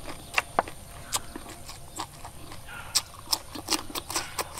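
Close-up eating sounds: chewing and mouth smacks on green papaya salad and raw vegetables, heard as a run of irregular sharp clicks.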